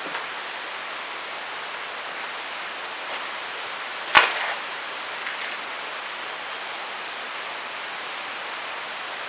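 Steady hiss, with one sharp knock about four seconds in.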